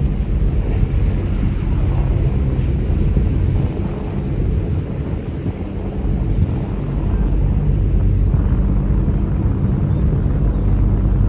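Chao Phraya tourist boat's engine running with a steady low drone, with wind buffeting the microphone on the open upper deck. The drone eases a little about four seconds in and builds again from about seven seconds.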